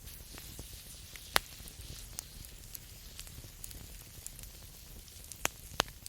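Campfire crackling and hissing, with sharp pops from the burning wood: a loud one about a second and a half in, and two more close together near the end.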